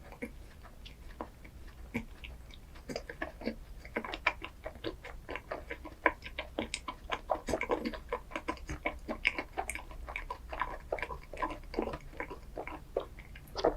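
Close-miked chewing of a chocolate ice cream dessert: rapid wet mouth clicks and smacks, sparse at first and coming thick and fast from about four seconds in.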